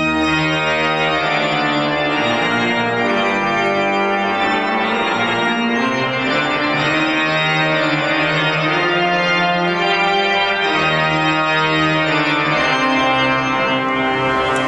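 Organ music: full, sustained chords held and changing every second or two.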